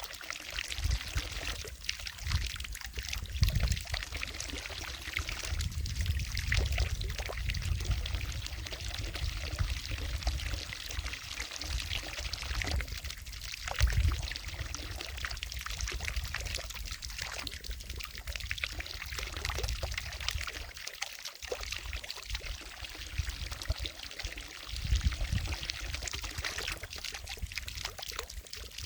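Water falling from a fountain into a lake, a steady pouring splash with an uneven low rumble that swells and fades every few seconds.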